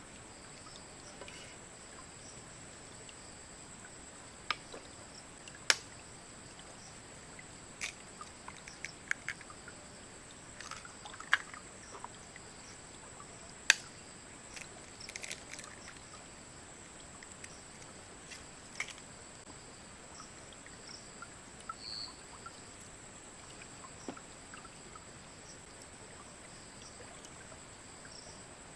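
Steady high-pitched drone of insects such as crickets, with scattered sharp clicks and knocks, the loudest about six seconds in and about fourteen seconds in.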